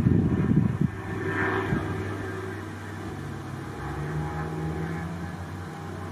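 Lexus IS350's 3.5-litre V6 with aftermarket headers and the primary cats removed, heard through the exhaust while driving. There is a steady engine note, and wind buffets the microphone for about the first second.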